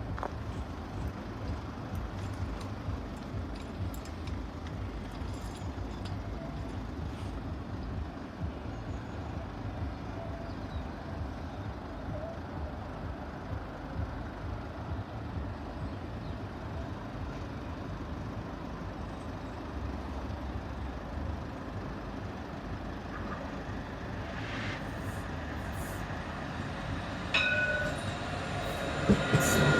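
Steady low background rumble of vehicles. In the last few seconds a train comes up to the level crossing, growing quickly louder, with a high steady squeal from its wheels.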